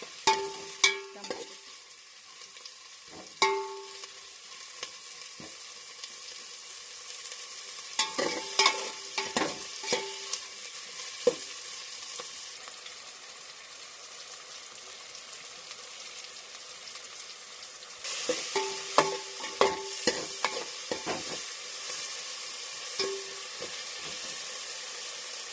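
Onions sizzling in hot oil in a pot while a metal spoon stirs them, clinking and briefly ringing against the vessel in short clusters. The sizzle grows louder about two-thirds of the way through.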